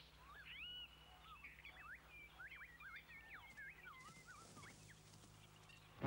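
Faint bird calls, as in jungle ambience: a quick run of chirps and whistles sliding up and down in pitch, thinning out about five seconds in. A low steady hum sits underneath.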